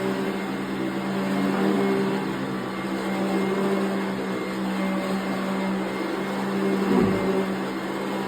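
1992 Eureka ESP upright vacuum cleaner running steadily while vacuuming a rug, a constant motor hum with a brief low bump about seven seconds in.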